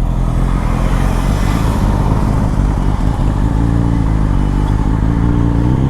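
BMW S1000RR's inline-four engine with an Akrapovic Evolution exhaust running at steady low revs. A rushing noise sits over it in the first half, and the engine note holds at an even pitch after that.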